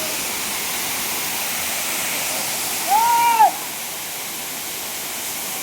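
Waterfall rushing steadily. About three seconds in, a brief high arched call rises and falls over it for half a second.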